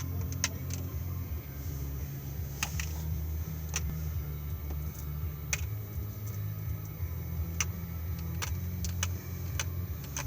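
Garbage truck engine idling with a steady low rumble, with irregular sharp clicks and rattles over it about a dozen times.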